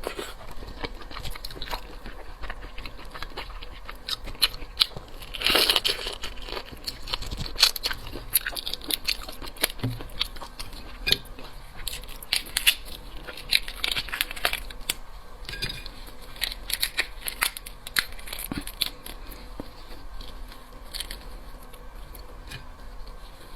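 Close-up crackling and crunching of a cooked black tiger prawn's shell being cracked, peeled and bitten, with chewing: a run of sharp, irregular crackles, thicker in the first half.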